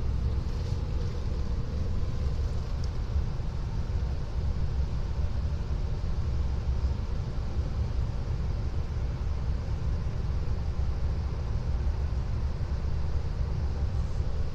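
Strong wind buffeting the stopped train, heard as a steady low rumble that rises and falls with the gusts.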